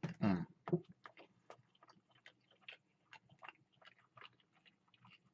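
A person biting into and chewing a lightly breaded crispy chicken sandwich at close range: many small, irregular crunching and mouth clicks. A louder bite with a brief sound from the voice comes in the first second.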